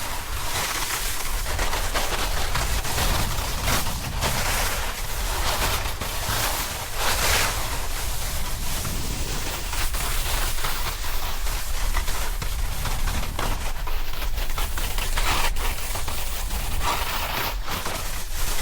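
Wind rushing over the action-camera microphone, a steady rumble and hiss, with a snowboard scraping and chattering over snow in a fast run.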